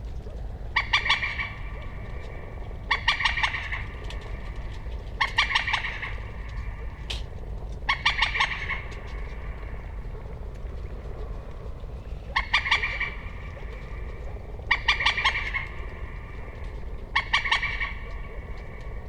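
Common moorhen calling: short, rapid stuttering series of harsh notes, repeated seven times about every two to three seconds, with a longer pause midway.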